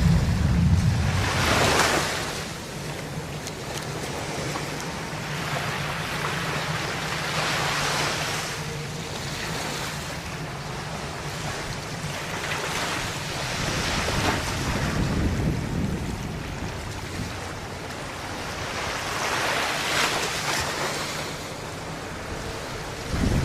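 Sea water rushing and wind buffeting the microphone, surging in swells every six seconds or so, over a faint low steady hum.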